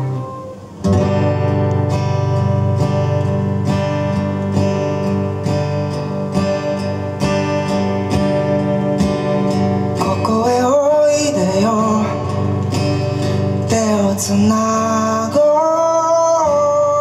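Band music from the song's closing section: after a brief break just under a second in, strummed guitar chords ring out over a steady bass with regular strokes. About ten seconds in, a bending melody line comes in over the chords.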